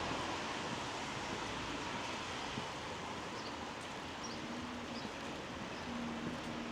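Steady hiss of light rain on a wet street, with a few faint, short, high chirps.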